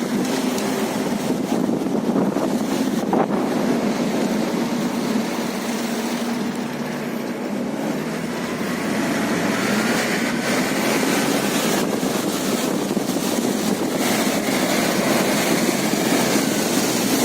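Toyota Land Cruiser engine running steadily as the vehicle drives off-road, with a single sharp knock about three seconds in.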